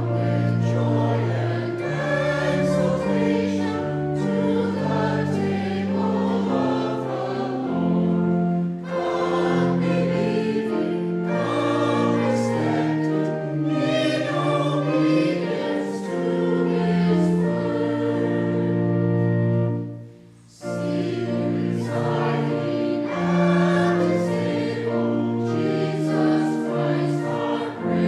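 Congregation singing a hymn with instrumental accompaniment, moving in held notes from phrase to phrase. There is a short break about two-thirds of the way through, as between verses.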